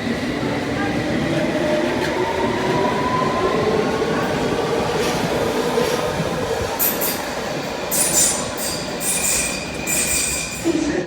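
London Underground train accelerating, its traction motor whine rising steadily in pitch. In the second half the wheels squeal sharply on the rails several times.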